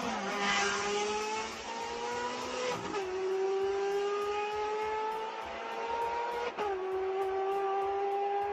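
Race car engine accelerating through the gears: the engine note climbs steadily, then drops with an upshift about three seconds in and again a few seconds later.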